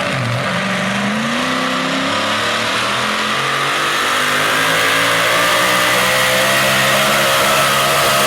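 Super modified four-wheel-drive pulling truck's engine revving up over the first couple of seconds, then held at high revs under load, growing a little louder toward the end.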